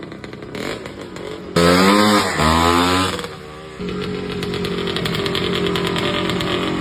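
Two-stroke engine of a 1971 Husqvarna 250 Cross dirt bike, freshly rebuilt, running with a rapid firing rhythm. It is revved hard twice about a second and a half in, then settles back to a steady run.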